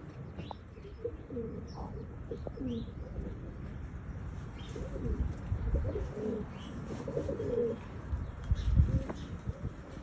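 Tippler pigeons cooing, one warbling coo after another, with a few short high chirps among them. A low rumble runs underneath and swells briefly near the end.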